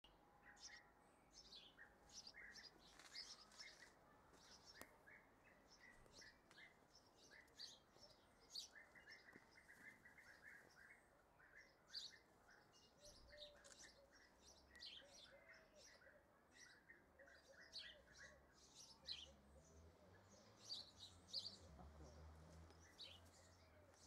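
Faint bird chirps and calls: many short, high notes scattered throughout, with runs of quick repeated notes near the middle.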